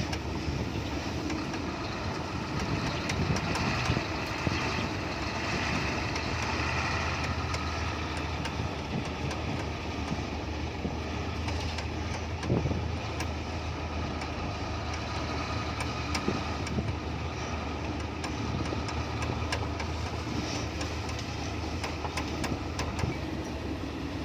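Diesel engine of a loaded Hino F18 ten-wheeler truck running steadily at low speed. Occasional short knocks and clicks sound over the engine.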